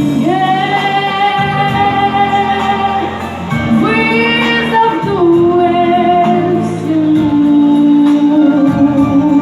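A female vocalist singing a song over a musical accompaniment, holding long sustained notes that shift in pitch a few times.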